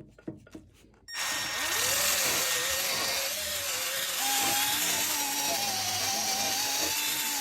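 Power tool running with a polishing pad on a metal exhaust tip: a steady whir with a whine that wavers in pitch as the pad works the metal. It starts about a second in, after a few faint clicks.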